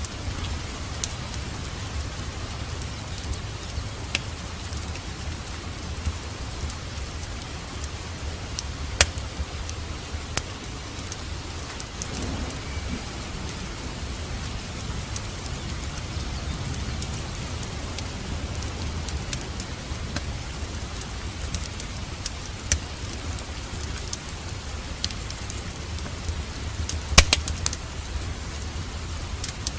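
Steady rain mixed with a crackling fireplace: an even hiss of rain over a constant low rumble, with scattered sharp crackles and pops, the loudest about 9 and 27 seconds in.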